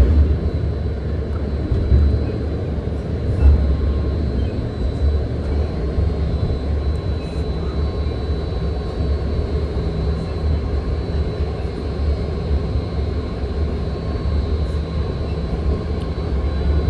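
Inside a BART train car under way: a steady low rumble of the wheels on the track, with a faint steady high whine on top.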